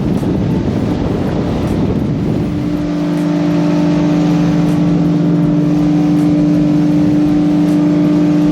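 Motorboat engine running at a steady speed under way. A dense rush of noise fills the first two and a half seconds, then eases, leaving a steady, even engine drone.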